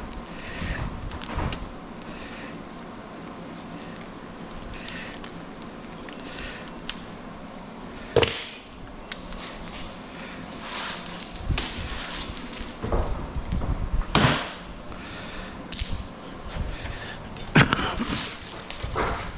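Scattered metal clanks, clinks and knocks of scrap being handled and dropped, with a sharp bang about eight seconds in and another loud clatter near the end.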